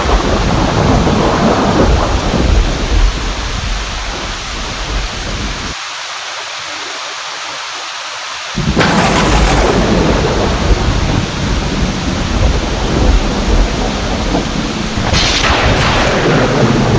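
Steady heavy rain with deep rolling thunder. The low rumble falls away for a few seconds in the middle, leaving only the hiss of rain, then a sudden sharp thunderclap brings it back about nine seconds in, with another crack near the end.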